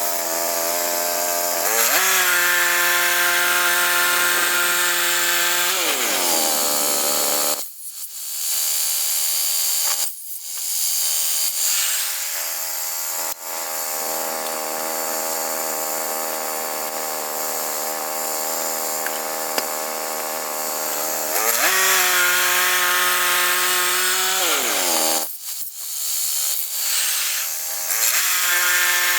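Woodland Mills HM122 portable bandsaw mill running: its engine drives the band blade through a log. The engine's pitch sags and falls away twice, about six seconds in and again near twenty-four seconds, and there are brief lulls in between.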